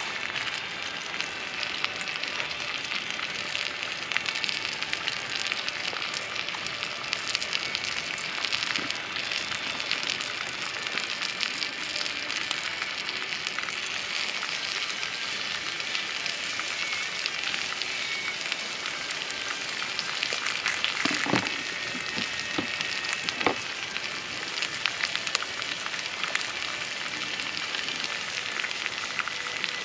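Food sizzling and crackling in a pan over a campfire, a dense steady hiss full of tiny pops, with a few brief knocks about two-thirds of the way through.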